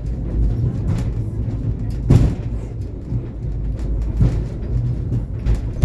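Mtatsminda funicular car running up its track, heard on board: a steady low rumble with a few short knocks, the loudest about two seconds in.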